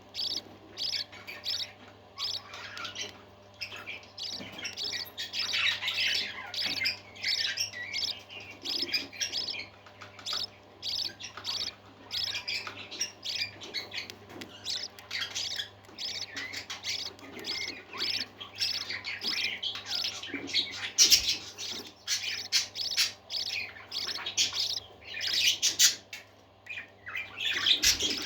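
Parakeets chattering and warbling: a dense, continuous stream of short chirps and squawks, with a faint steady low hum underneath.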